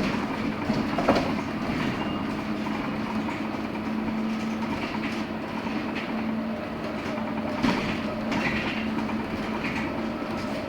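Cabin noise inside a LiAZ-6274 electric bus on the move: a steady low hum over tyre and road rumble, with a few short rattles or knocks from the body.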